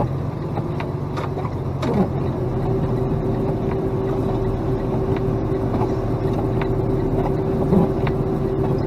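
Freightliner plow truck's diesel engine running steadily, heard from inside the cab. A steady hum joins in about two seconds in, and there are a few light clicks.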